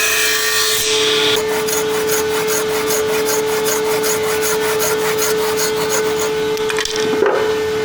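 Hand tool worked back and forth on wood in quick even strokes, about three or four a second, over a steady machine hum.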